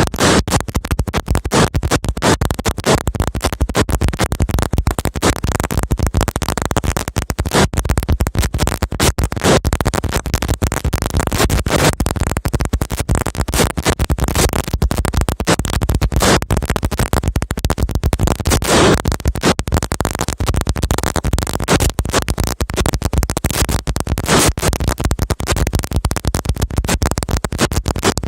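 A ratelband, a long firecracker string of about a thousand flash-powder crackers, going off in a dense, continuous rattle of rapid bangs, with a few louder bangs scattered through it.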